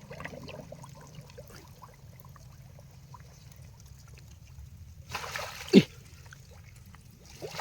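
Shallow water sloshing and splashing as someone wades through water hyacinth groping for fish by hand, with a louder splash a little past five seconds in.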